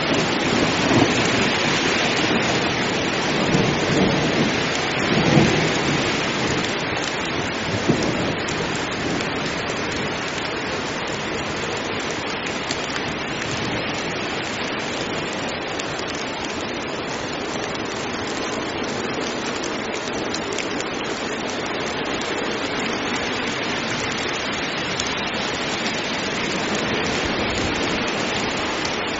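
Heavy rain pouring steadily, with low thunder rumbling through the first several seconds before the rain carries on alone.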